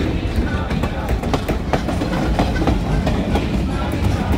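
Stone Mountain train's passenger cars rolling past close by: a steady low rumble with irregular clacks of the wheels over rail joints.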